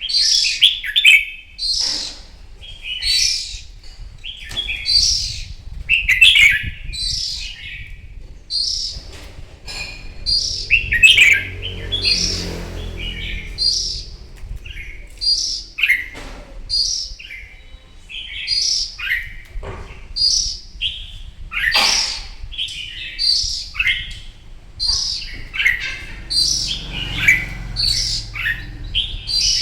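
Red-whiskered bulbul singing: short, loud, warbling phrases repeated about once a second, the fired-up competition song.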